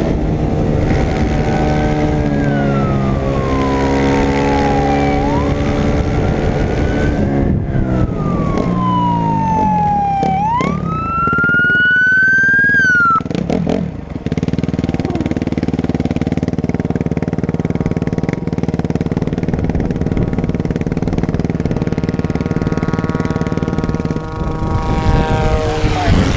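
A police siren wails, sliding slowly down and back up about twice before cutting off sharply about halfway through, over a running motorcycle-type engine that revs and then holds steady.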